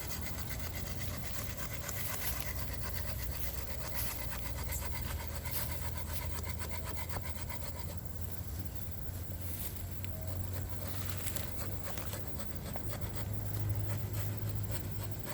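Hand saw cutting through a bamboo culm: a steady run of quick rasping strokes that eases off and changes partway through, over a low steady rumble.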